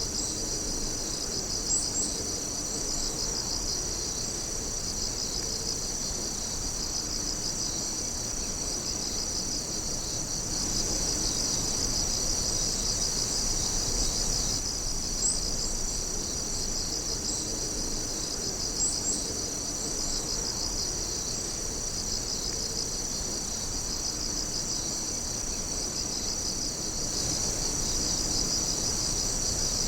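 Night insects chirping in a dense, continuous high-pitched chorus of overlapping trills. It swells slightly twice, about a third of the way in and near the end.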